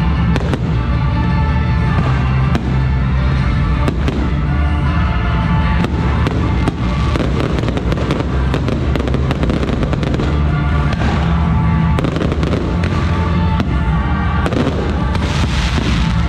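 Aerial fireworks bursting and crackling in quick succession, many sharp reports close together, over loud music with a heavy, steady bass line.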